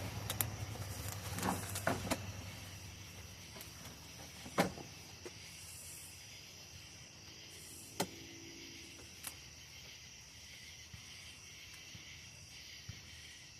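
A few sharp, scattered clicks and knocks from handling the plastic parts of a new cordless lawnmower kit, the loudest about four and a half seconds in, over a steady background hiss. A low rumble fades out in the first couple of seconds.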